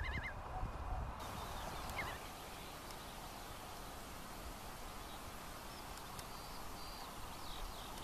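Wild birds calling faintly over a steady outdoor hiss: a quick warbling trill right at the start, a short rising note about two seconds in, and scattered high chirps in the second half.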